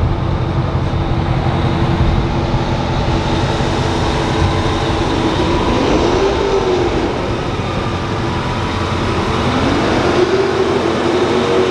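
Vehicle engines running with a steady loud drone, their pitch rising and falling twice, about six and ten seconds in.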